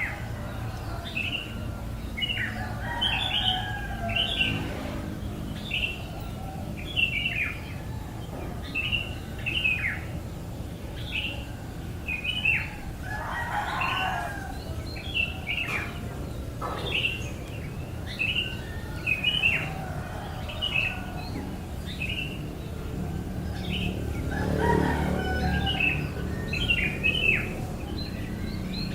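Baby bird chirping over and over: a steady series of short, high, falling chirps, one or two a second.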